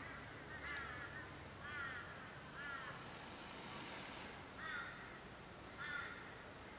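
A bird calling: a series of about six short calls, each rising then falling in pitch, roughly one a second with a longer pause midway.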